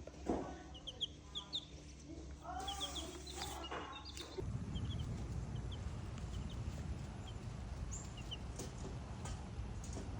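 Polish baby chicks peeping: short, high cheeps in quick little runs of two or three, thicker in the first few seconds and then scattered. A low rumbling noise comes in about four seconds in.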